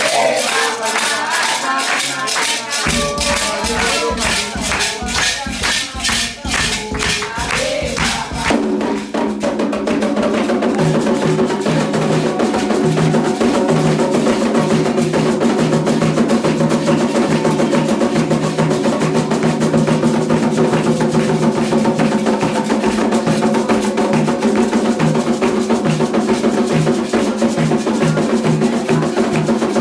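Candomblé ritual music: group singing over fast hand clapping and a shaken rattle. About eight seconds in it turns into a denser, steadier wash of music with the shaking going on in rhythm.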